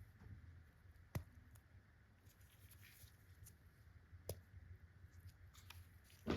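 Candy packaging being handled, very quietly: three sharp clicks or taps, about a second in, just past four seconds, and a louder one near the end.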